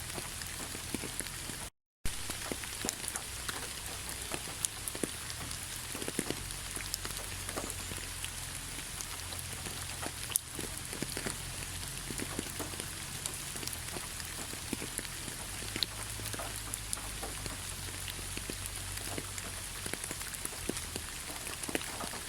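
Heavy rain falling: a steady hiss of rain on a surface, with many individual drops ticking through it. The sound cuts out to silence for a moment about two seconds in, then resumes.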